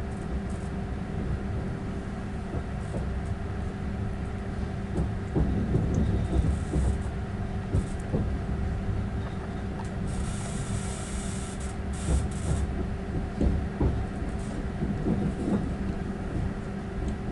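Passenger train running, heard from inside: a steady engine hum over a low rumble, with wheels knocking and clicking over the rails from about five seconds in. A brief hiss about ten seconds in.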